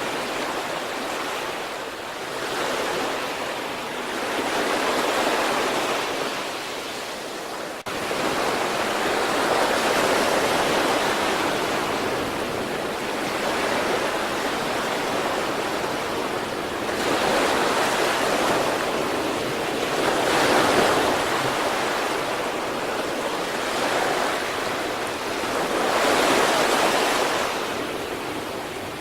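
Sea waves breaking and washing in, a continuous rush of surf that swells and ebbs every few seconds, with a brief drop-out about eight seconds in.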